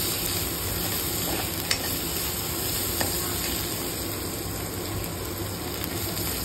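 Sliced onions, green chillies and curry leaves with ginger-garlic paste sizzling in oil in a kadai, stirred with a steel spoon that clicks against the pan a couple of times.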